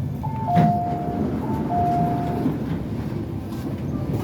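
An MTR Tuen Ma Line train's running rumble, with an onboard two-note falling chime sounding twice in the first half and a sharp click about half a second in.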